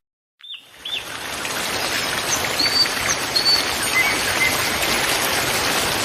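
Small birds chirping and whistling in short high notes over the steady rush of running water, which fades in over the first second.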